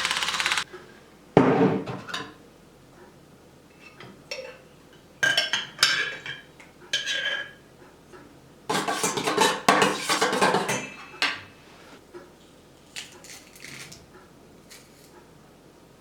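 Kitchen dishes, pots and cutlery clattering and clinking in several separate bouts, the longest about two seconds, as things are handled. About half a second in, a steady buzzing cuts off.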